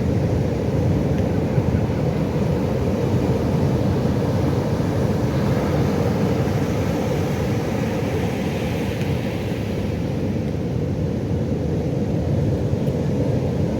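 Pacific Ocean surf on a beach: a steady low rumble of breaking waves, with one wave washing in more loudly and hissing about halfway through before easing off.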